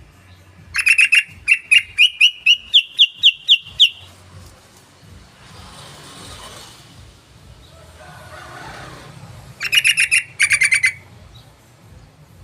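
Yellow-vented bulbul (trucukan) song: a loud run of about a dozen quick, bubbly notes that climb gradually in pitch, then after a pause a second shorter run of rapid notes near the end.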